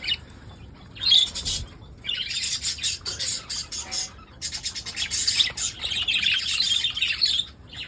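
Pet budgerigars chirping and chattering in fast, high-pitched runs, in bursts with short breaks about a second in and again about four seconds in.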